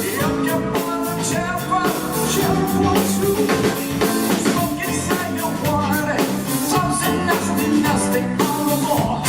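A live band playing a pop-rock cover song, with drum kit, guitar and singing.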